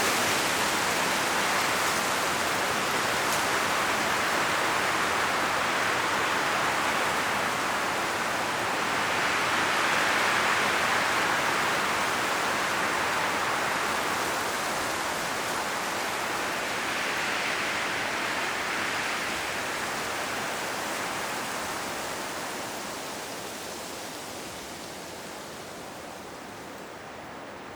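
Strong wind blowing through an autumn forest, a steady rushing of leaves in the trees that swells in two gusts and then dies down near the end.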